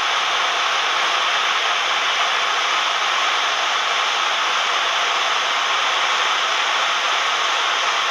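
Steady rushing noise of a Cessna 172M's four-cylinder engine and the airflow, heard inside the cabin, holding an even level throughout.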